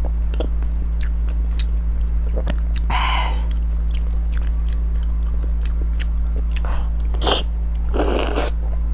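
Close-miked chewing and biting of soft, fatty braised pork belly: wet smacking mouth clicks throughout. Louder mouth noises come about three seconds in and again near the end.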